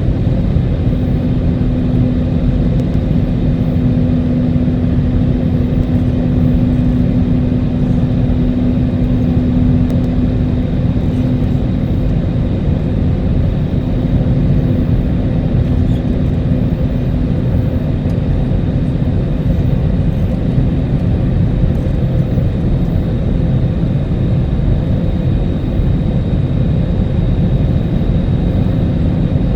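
Steady loud rumble heard inside the cabin of an Airbus A320neo rolling out on the runway just after touchdown, with its engines running. A steady hum in the rumble fades about two thirds of the way through.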